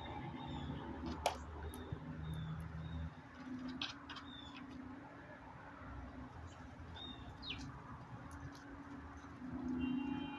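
Small backyard birds chirping: scattered short high chirps and a few quick downward-sliding notes, with a sharp click about a second in, over a low steady background hum.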